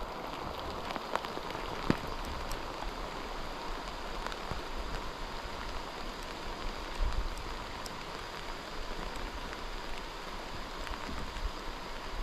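Light drizzle pattering on the river: scattered drops click over a steady hiss of rain and moving water.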